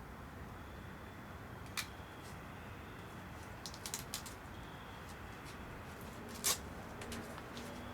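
Wood fire burning in a 55-gallon barrel rocket heater, with a steady low rushing sound and a few sharp crackles and pops: one about two seconds in, a quick cluster around four seconds, and the loudest near six and a half seconds.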